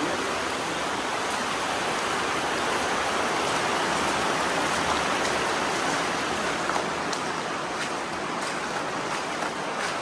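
Floodwater rushing steadily: a normally small creek swollen by heavy rain into a fast-flowing torrent.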